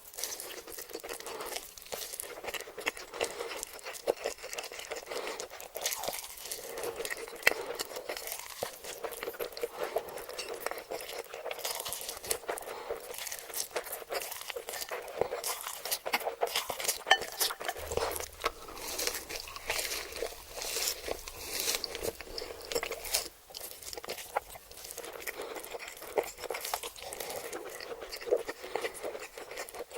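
Close-miked eating: crunchy food being bitten into and chewed, with a steady run of crisp crackles and crunches.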